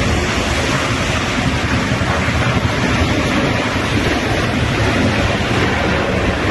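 Military helicopters running close by: a steady, loud rush of turbine and rotor noise with a deep low rumble, and wind buffeting the microphone.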